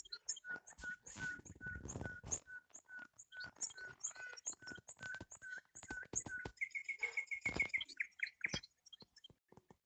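A bird calling: a long run of short, evenly spaced piping notes, about three a second, then a quicker, higher trill of notes about seven seconds in, with sharp high chirps and scattered clicks throughout.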